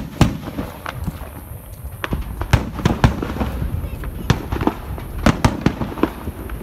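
Fireworks display going off: a rapid, irregular string of sharp bangs, several a second at times, with no pause between them.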